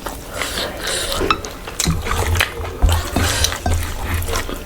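A plate and utensils clinking during a meal, with scattered short clicks. Low thuds come in from about two seconds in.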